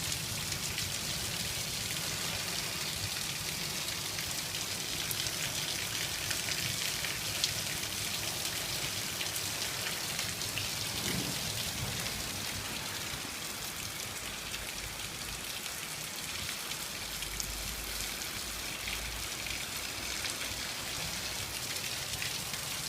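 Heavy rain pouring down: a steady hiss of countless drops pattering on surfaces.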